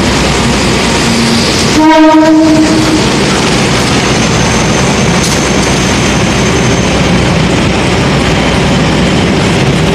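A passenger train running through the station at speed, with a steady loud rush of wheels on the rails. About two seconds in, the locomotive's horn sounds once for a little over a second.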